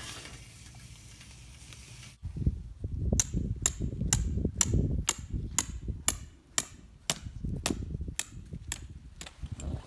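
A hammer driving a tent peg: a steady run of about a dozen sharp metallic strikes, about two a second, starting about three seconds in, over low rumbling noise.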